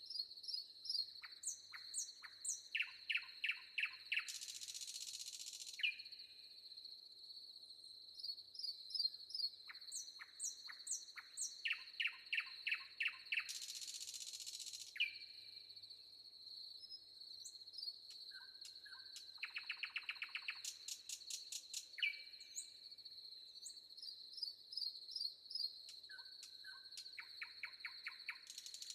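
Songbirds singing in a forest, with rapid runs of chirps and whistled phrases recurring every several seconds, over a steady high-pitched insect drone.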